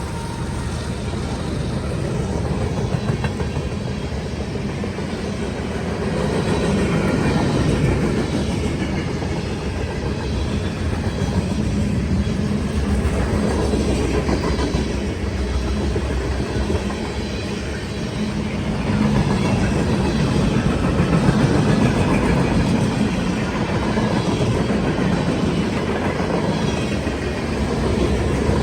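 A CSX freight train's cars rolling past, a steady rumble with the clatter of wheels over the rail joints.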